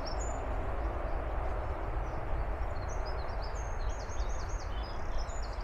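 Small songbirds singing, with runs of quick, high, repeated notes that are busiest in the second half, over a steady low outdoor rumble.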